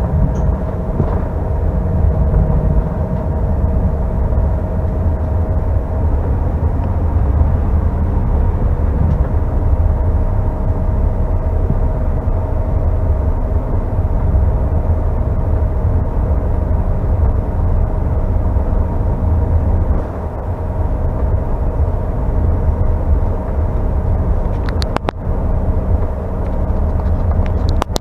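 Cabin noise of a Delta CRJ900 airliner: the rear-mounted GE CF34 turbofans give a steady hum over a constant low rumble. A couple of short clicks come near the end.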